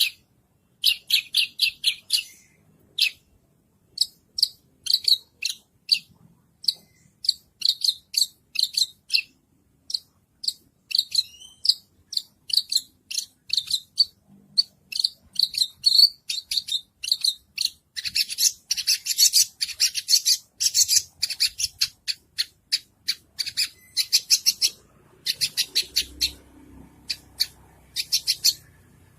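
White-rumped shama (murai batu) singing: quick runs of short, high chirping notes repeated in fast trains, broken by two denser, harsher chattering passages, one about two-thirds through and one near the end.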